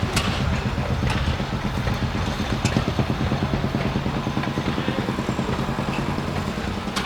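An engine running steadily with a fast, even pulse, with a few light clicks over it.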